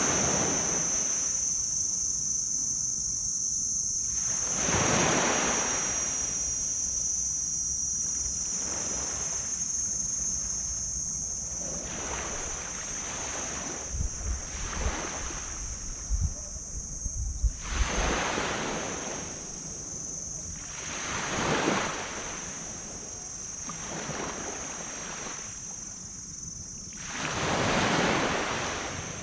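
Small tropical waves breaking and washing up on a black sand beach, one swell every few seconds, over a steady high insect drone. Wind buffets the microphone in low thumps a little past the middle.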